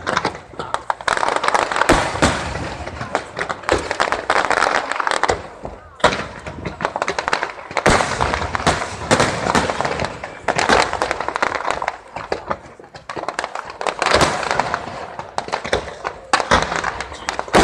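Fireworks bursting and crackling in rapid, irregular succession, with voices from the watching crowd.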